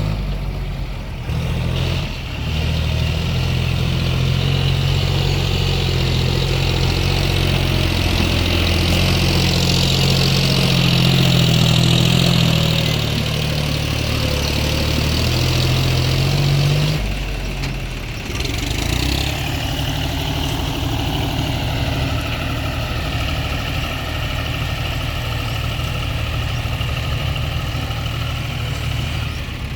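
Diesel engine of a JCB 3DX backhoe loader running, working harder and louder for much of the first half, with a brief dip about seventeen seconds in, then settling to a steady, slightly lower note.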